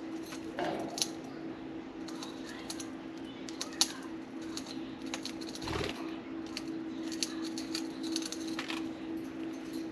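Budgies chewing and shredding a soft-wood toy: many small sharp clicks and snaps, with a few short chirps, over a steady low hum.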